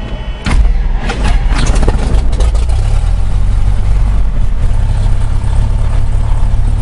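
The Cessna 172SP's four-cylinder Lycoming engine catches about half a second in after cranking on the starter, then runs on and settles toward idle, its speed shifting a couple of times as it steadies after the start.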